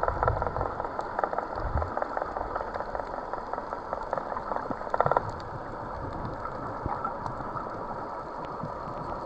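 Steady fizzing, crackling water noise made of many fine clicks, with a brief denser cluster of clicks about five seconds in.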